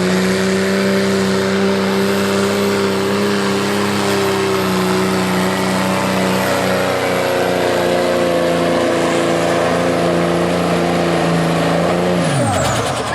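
Modified diesel pickup truck engine at full throttle under heavy load pulling the sled, its note held nearly steady with a high turbo whistle above it. Near the end the throttle comes off and the engine note and whistle fall away quickly.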